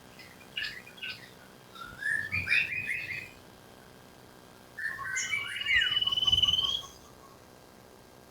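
Common iora song: three bursts of chirps and whistles, the last ending in a long, even trill held at one pitch.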